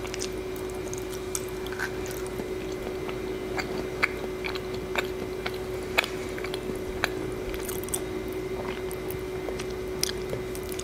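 Close-miked chewing of food, with irregular wet clicks and smacks of the mouth. A steady faint hum runs underneath.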